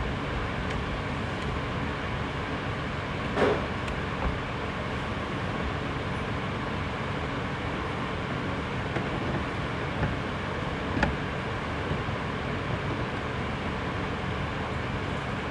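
Steady background noise with a low hum, broken by a few sharp clicks and a short knock a little over three seconds in.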